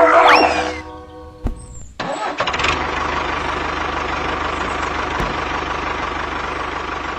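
A small engine or motor starts suddenly about two seconds in and then runs steadily at an even pitch.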